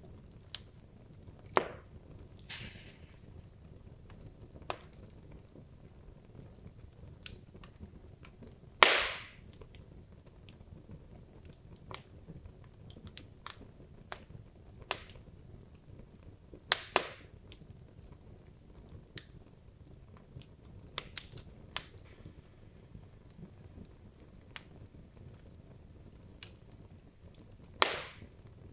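Burning wood logs crackling in a fireplace: irregular sharp pops and snaps over a low steady rumble of flame. The loudest pop comes about nine seconds in and trails off in a short hiss, with other strong pops near the start, around seventeen seconds and near the end.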